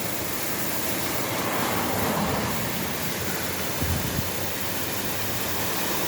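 Steady rushing of a rain-swollen waterfall of storm runoff pouring down the hillside, with a brief low buffet of wind on the microphone about four seconds in.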